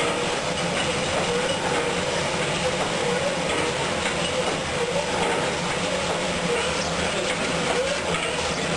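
Steam tug's triple-expansion steam engine running, a steady mechanical clatter with a wavering hum, heard inside the engine room.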